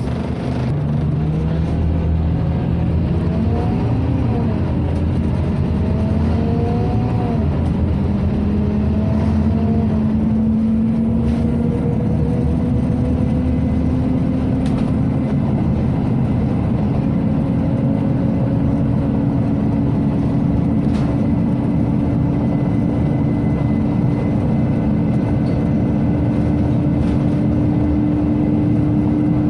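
Inside a Scania OmniCity city bus on the move: a steady drone of engine and ventilation. Partway through, a tone starts to climb slowly and keeps rising to the end.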